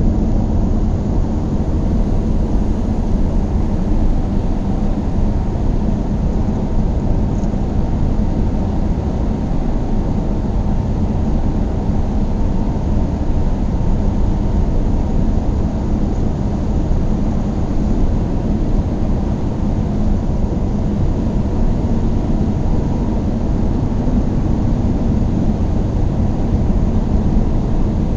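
A car driving steadily at speed: engine and tyre noise on the road, an even, unchanging low-pitched noise.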